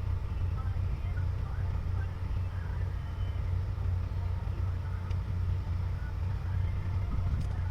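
Excavator's diesel engine running steadily, a low even hum.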